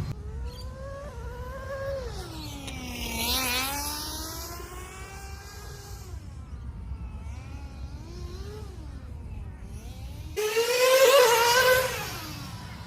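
Small two-stroke nitro glow engine (Novarossi CX12) of a 1/10-scale RC touring car running on track, its pitch rising and falling as it accelerates and backs off. Loudest for about a second and a half near the end.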